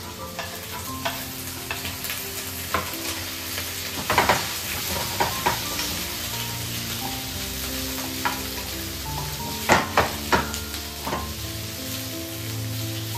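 Chicken pieces sizzling as they fry in a pan while being stirred, the spatula knocking against the pan now and then, sharpest about four seconds in and in a quick run of three near ten seconds.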